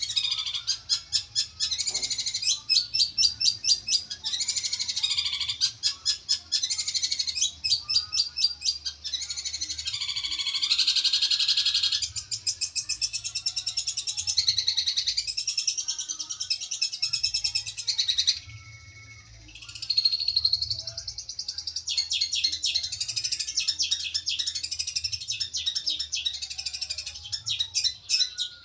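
Long-tailed shrike (cendet) singing a long, fast, chattering song of rapid high notes, broken by a short pause about two-thirds of the way through.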